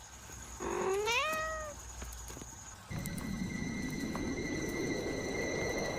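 A cat meows once, a call of about a second that rises in pitch. About three seconds in, a steady rushing noise with a faint high whine starts.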